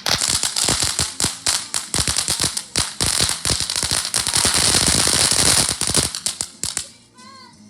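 A string of firecrackers going off in rapid succession, the pops thickening into a continuous crackle, then stopping abruptly near the end.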